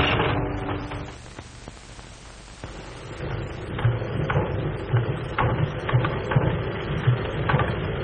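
Irregular clattering knocks and thuds begin about three seconds in, over the hiss of an early sound-film soundtrack, after a steady sustained tone fades out within the first second.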